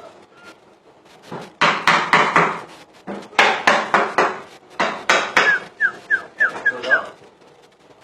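Green leafbird (cucak ijo) singing loudly in full voice: a run of harsh, rasping bursts, then a quick series of about six short falling whistled notes.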